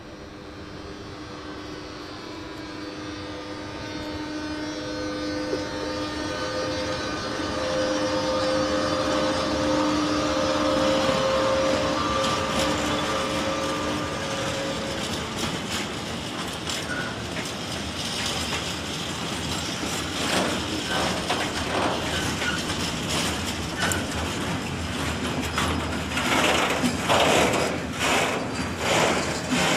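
Škoda class 163 electric locomotive approaching with a steady whine of several tones that grows louder over the first ten seconds. From about twenty seconds in, freight wagons and unpowered metro cars roll past with irregular clicks and knocks of wheels over the rail joints.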